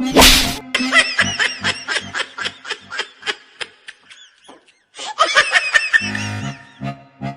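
A short loud burst of noise, then high-pitched laughter in quick repeated bursts, breaking off for about a second around four seconds in. Comedic background music runs underneath, with a low beat that grows stronger near the end.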